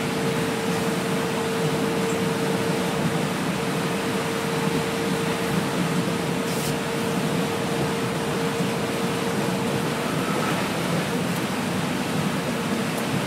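Cabin noise of a New Shuttle rubber-tyred automated guideway train running along its wet guideway: a steady rushing noise with a low rumble and a steady whine that fades out about ten seconds in.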